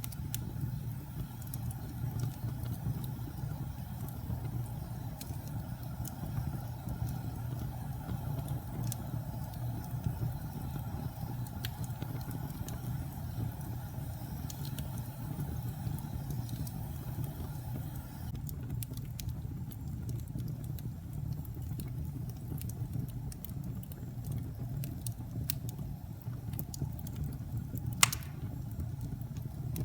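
Wood fire burning in a fireplace: a steady low rumble of flames with scattered crackles and a single louder pop near the end.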